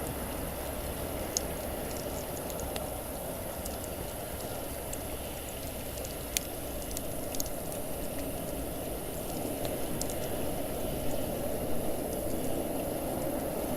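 Wood campfire burning: a steady rushing hiss with scattered sharp crackles and pops from the burning wood.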